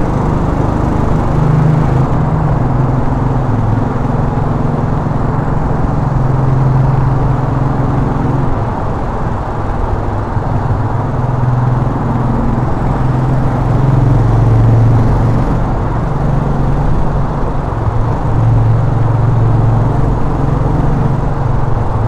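A 2010 Royal Enfield's single-cylinder engine running on the move, its note rising and falling with the throttle, over steady wind and road noise.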